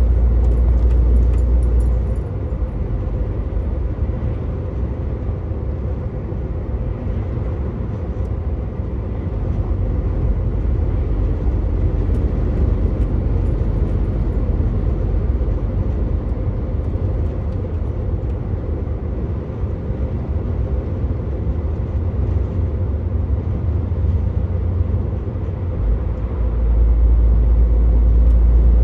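Truck engine and road noise from the cab while driving: a steady deep rumble with tyre and wind noise. The low rumble eases about two seconds in and grows louder again near the end.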